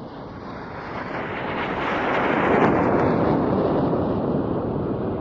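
BAE Hawk T1 jet flypast: the jet noise swells to its loudest about two and a half seconds in, then fades away.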